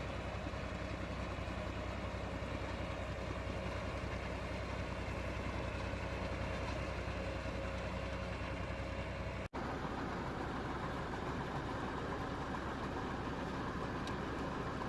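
IMT tractor's diesel engine running steadily under the load of a Red Lance mini round baler working off the PTO. The sound cuts out for an instant about two-thirds of the way through, then carries on the same.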